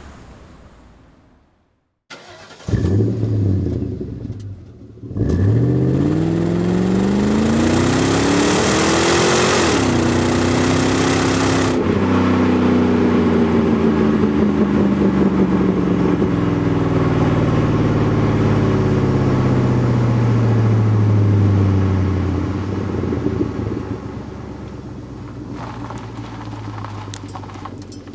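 Car engine starting. A loud first burst fades out, then the engine catches about five seconds in and revs up steeply. It holds high revs, winds slowly down, and settles to a quieter idle near the end.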